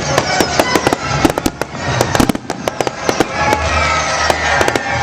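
Fireworks going off in rapid, irregular cracks and pops, thickest in the first couple of seconds, over loud funfair music with a steady bass.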